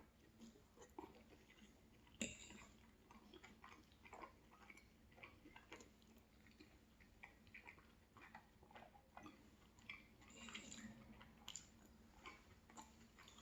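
Faint, close-miked chewing of a person eating, a run of small irregular wet mouth clicks, with one sharper click about two seconds in.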